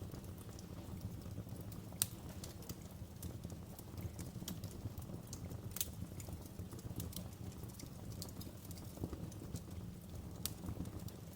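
Wood fire crackling in a fireplace: irregular sharp pops and snaps over a steady low rumble of burning. There is a louder pop about two seconds in and another about six seconds in.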